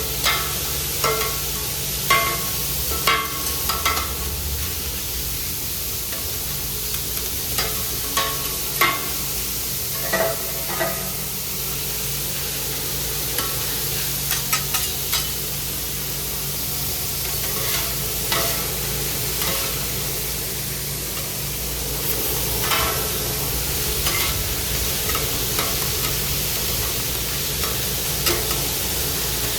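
Food frying with a steady sizzle, with frequent sharp clinks and scrapes of metal utensils, most of them in the first half and again near the end.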